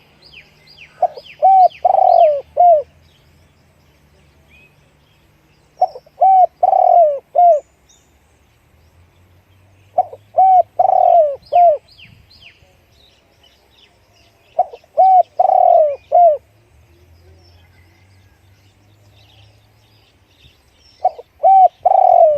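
Spotted dove cooing: five phrases of several short, deep coos, one every four to five seconds, with small birds chirping faintly higher up between them.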